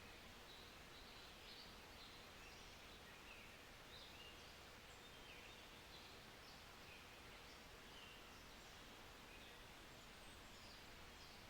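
Near silence: faint room tone with scattered faint bird chirps from outside, short high calls a few times a second.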